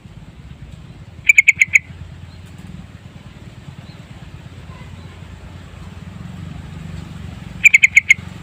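Sooty-headed bulbul calling: two short bursts of about five quick, loud notes each, one about a second in and one near the end, over a steady low hum.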